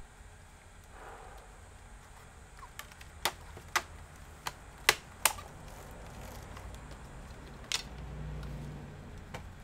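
Sharp clicks and taps, about six spread over a few seconds, from small parts and tools being handled on a laptop that is being put back together.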